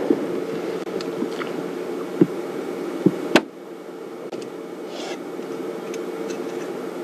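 A steady low hum and hiss broken by a few sharp clicks, the loudest about three and a half seconds in, after which the hum drops a little.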